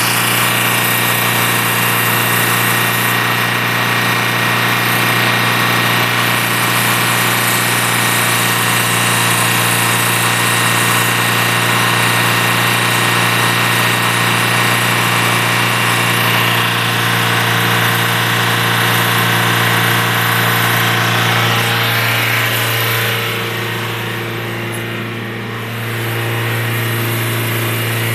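Hot engine running at a steady idle, with an even, pitched hum. About 23 seconds in the higher hiss thins out and the sound dips briefly before picking back up.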